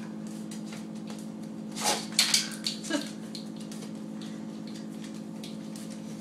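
Pit bull sneezing: a quick run of short, sharp sneezes about two seconds in, set off by the smell of incense. A steady low hum continues underneath.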